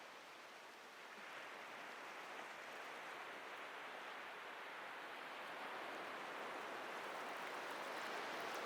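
Atlantic surf washing on a beach, a steady hiss that slowly swells from about a second in as a wave comes in.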